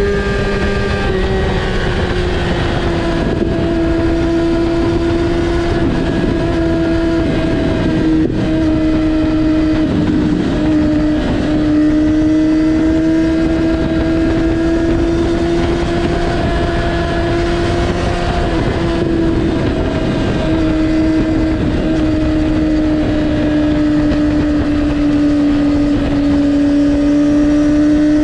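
Kawasaki ZX-6R (2019) inline-four running loud through an Akrapovic exhaust with the dB killer removed and the butterfly valve disabled. It holds a steady engine speed, with the pitch dipping slightly at the start and then drifting gently up and down.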